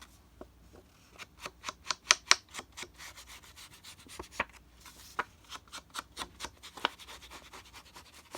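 Paper being rubbed and handled on a work surface: a run of short, quick scraping strokes, several a second, loudest about two seconds in.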